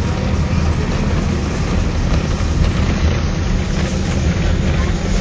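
Steady rumble of a moving train heard from on board a carriage: wheels running on the track, with the locomotive hauling the train.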